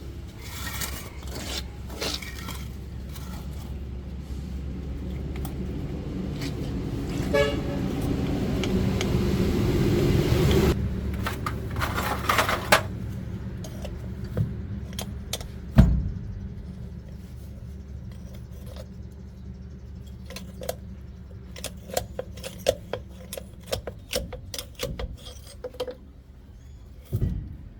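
Metal parts and tools clinking and knocking over a steady low mechanical hum. The hum swells for the first ten seconds or so and then drops off suddenly, leaving scattered sharp clinks and one heavy knock.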